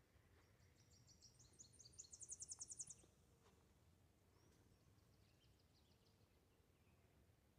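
A small songbird singing: a phrase of high, thin notes that speeds up into a rapid trill and stops about three seconds in. A fainter, more distant bird song follows a moment later.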